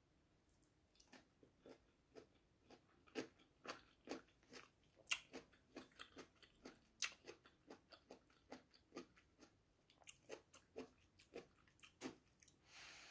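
Close-miked chewing of a raw cucumber slice and coconut rice: a run of crisp crunches and wet mouth clicks, two to three a second, a few of them louder and sharper. There is a brief hiss near the end.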